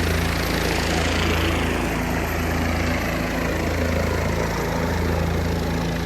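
Helicopter running steadily: a loud, continuous rotor and turbine noise with a deep, rapidly pulsing hum.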